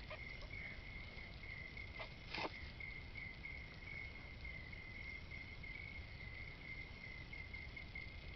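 Insects trilling steadily, a cricket-like chirring held at one high pitch throughout. A small click about two seconds in and a louder knock about half a second later stand out briefly.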